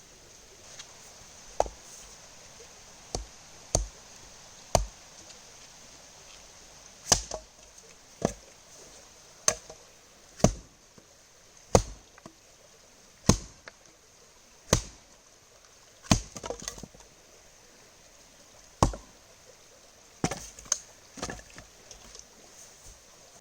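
Hatchet chopping pine wood, a string of sharp, separate blows about one a second at uneven spacing.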